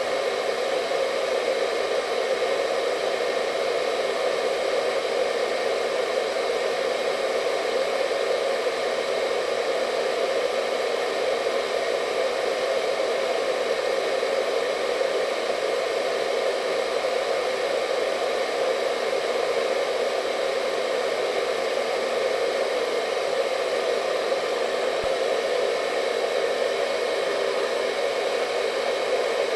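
Hair dryer running steadily at a constant speed, a continuous hum and rush of air that does not change.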